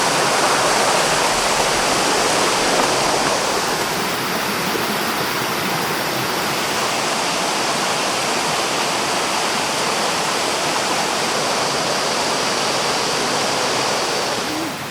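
Loud, steady rush of a fast-flowing mountain stream, water pouring over rocks.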